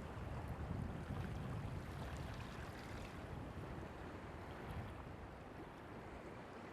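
Steady wind noise on the microphone over surf washing on the beach.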